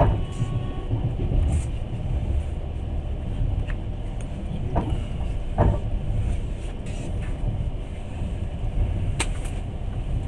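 Passenger train rolling along, heard from inside the carriage: a steady low rumble from the running gear, with a few sharp knocks and clacks scattered through it.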